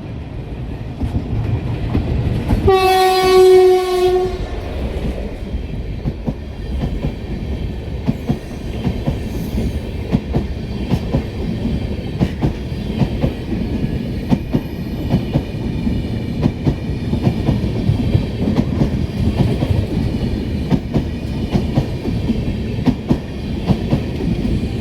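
Electric train sounding one horn blast, about a second and a half long, a few seconds in. It then runs past with a steady rumble and rapid clickety-clack of wheels over rail joints.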